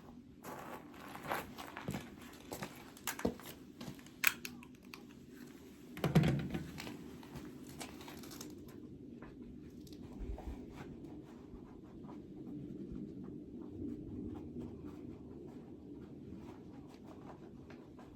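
Crinkling, crackling handling sounds of dry material, with sharp clicks over the first half and a thump about six seconds in, then quieter scattered ticks.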